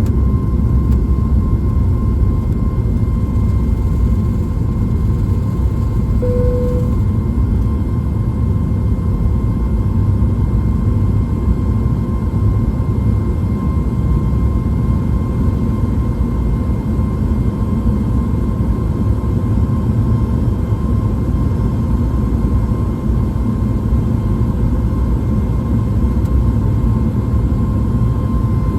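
Cabin noise inside a Boeing 737 MAX 8: the CFM LEAP-1B engines running, a steady rumble with a steady whine over it. A short single beep about six seconds in.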